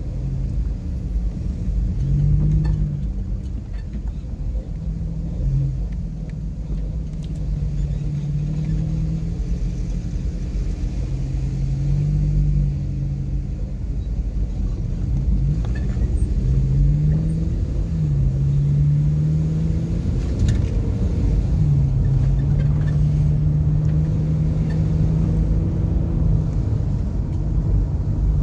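Car driving, with a steady low road rumble and the engine note repeatedly rising and dropping as it speeds up and shifts gear.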